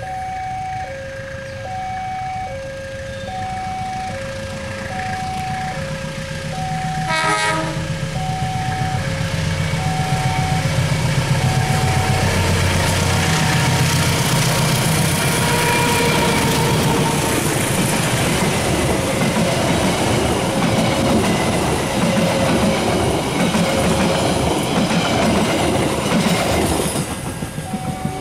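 Diesel locomotive approaching with a low engine drone and a short horn blast about seven seconds in, then the passenger train rolling past for nearly twenty seconds with loud wheel-on-rail noise that drops away near the end. A warning alarm alternating between two tones, as from a level crossing, rings through the first half and briefly again near the end.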